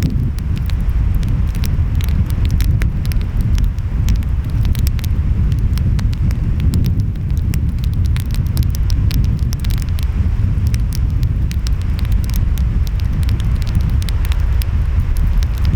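Wood fire crackling with frequent sharp pops, over a steady low rumble of ocean waves and wind.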